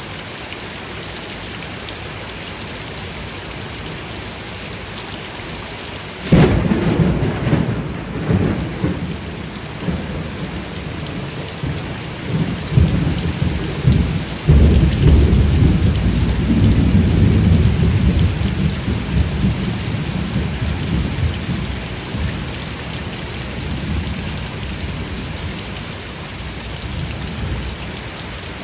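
Steady heavy rain. About six seconds in, a sudden thunderclap breaks into a long rolling rumble that swells again several times, then fades back under the rain.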